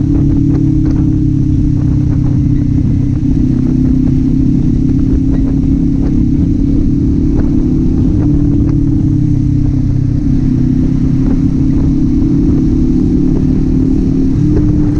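Kawasaki Z400's parallel-twin engine and exhaust running at steady cruising revs under way; the engine note drops slightly about halfway through and rises again near the end.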